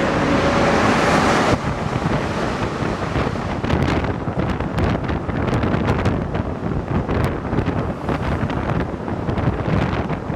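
Rubber-tyred NS-88 metro train running, a steady rumble with many small clicks and rattles. A loud hiss cuts off suddenly about a second and a half in.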